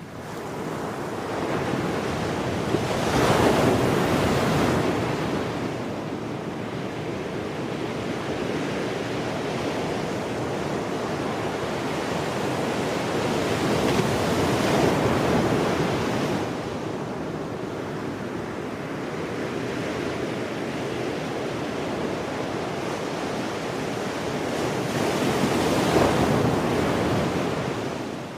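Sea waves washing in and breaking on the shore three times, about every eleven seconds, in a steady wind.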